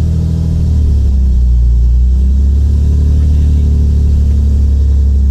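Toyota Supra's 2JZ straight-six engine running steadily, with a slight shift in pitch in the first two seconds.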